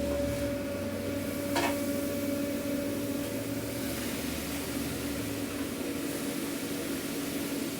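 Steady mechanical hum of food-truck kitchen equipment, with a low rumble that fades about five seconds in and a single short clack about one and a half seconds in.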